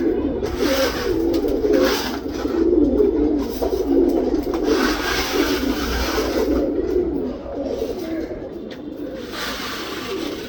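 Domestic pigeons cooing continuously, their low warbling coos overlapping one another, with a few short bursts of hissy noise.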